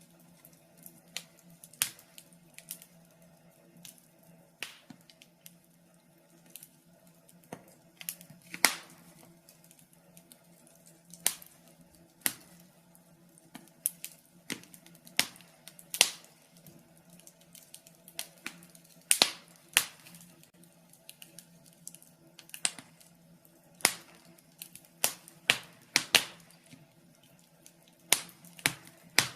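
Wood fire burning in a fireplace, with irregular sharp crackles and pops, several a second at times, over a faint steady low hum.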